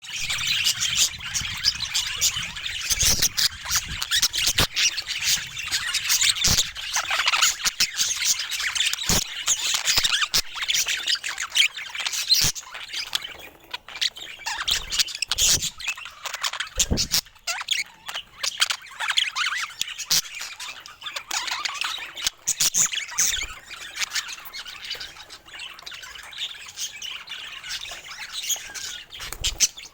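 Budgerigars chattering and squawking continuously, densest in the first half and thinning toward the end, with scattered sharp taps and clicks among the calls.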